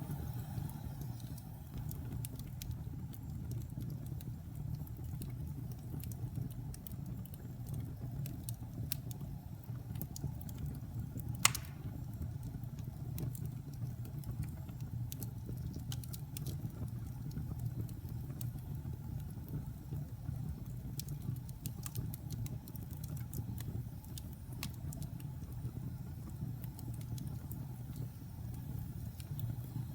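Wood fire burning in a fireplace: a steady low roar with scattered crackles, and one sharp pop about eleven seconds in.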